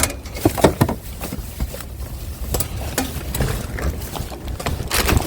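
Irregular knocks and clatters, a few of them sharp, over a low rumble of wind on the microphone.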